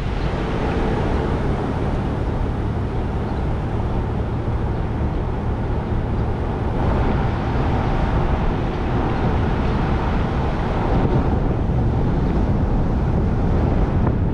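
SUV towing a boat trailer on the road: steady engine and road noise.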